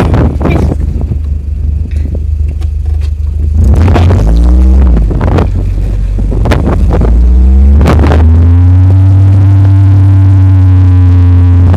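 Off-road vehicle engine accelerating: its pitch rises twice, then holds steady, over a heavy, distorted low rumble. Knocks come in the first half.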